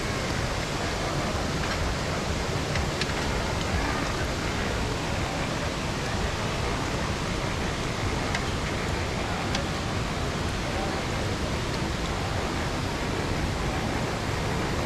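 Steady rushing noise, strongest in the lows, with a few faint clicks.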